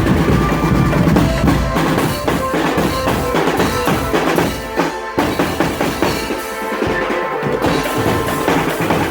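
Marching drum band playing: snare and bass drums beating with rolls, and a melody carried over the drums. The bass drum is heavy for the first two seconds, then lighter.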